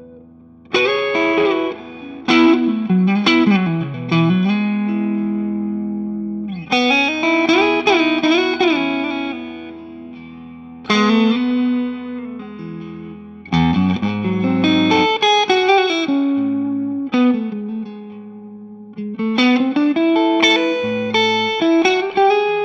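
Electric guitar played through a Two-Rock Classic Reverb Signature tube amp head, in a mostly clean, lightly driven tone. It plays picked chords and lead phrases with bent, wavering notes, each phrase ringing out and fading before the next strike.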